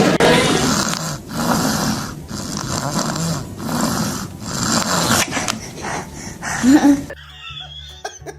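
A dog snoring, with loud noisy breaths about once a second. It cuts off suddenly about seven seconds in, leaving a quieter steady low hum.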